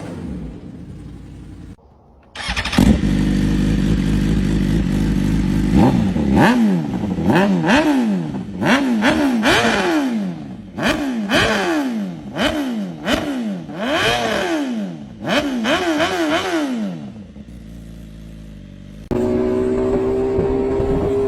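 Superbike engine revved in repeated quick blips, about one a second, each rising and falling in pitch, after a steady stretch that comes in suddenly about two seconds in. Near the end a steady engine note is held at constant speed.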